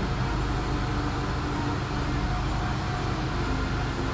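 Steady low mechanical hum and rumble, even throughout, with no distinct knocks or strokes.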